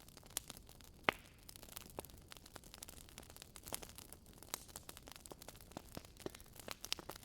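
Wood campfire crackling: a soft hiss dotted with frequent sharp pops and snaps of burning wood, the loudest pop about a second in.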